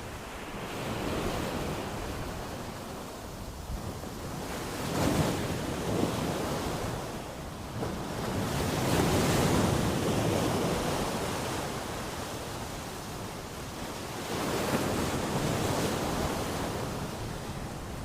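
Sea waves breaking on a beach, the surf swelling and ebbing in slow surges every few seconds.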